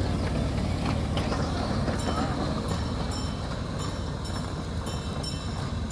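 Train on a miniature railroad rolling along, a steady low rumble with scattered clicks from the wheels on the track.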